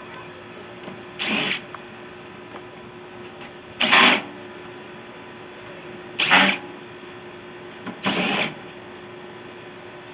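Power drill run in four short bursts about two seconds apart, taking the screws out of a microwave's casing.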